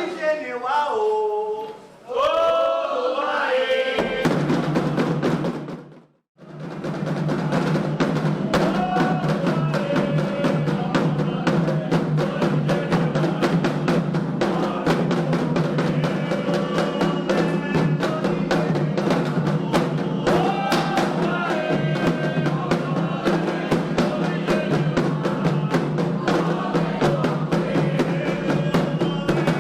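Candomblé ritual music for Ayrá: atabaque drums and sung chants. Voices sing alone at first, the sound cuts out briefly about six seconds in, then fast, steady drumming with singing carries on.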